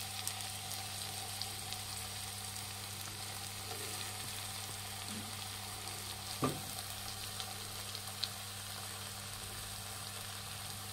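Onions, capsicum and tomato frying in a pan, a faint steady sizzle over a low steady hum, with one soft tap past the middle.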